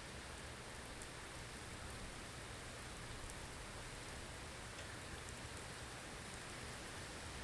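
Steady blizzard ambience: an even hiss of wind-driven snow, with faint light ticks now and then.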